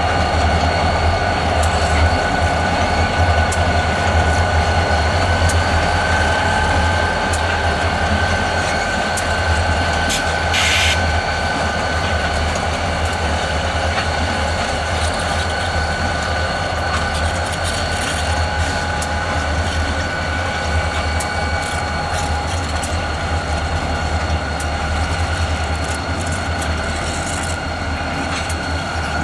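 A consist of three diesel locomotives moving slowly, with a steady low engine rumble, several steady high-pitched tones and scattered sharp clicks. A short hiss comes about ten seconds in.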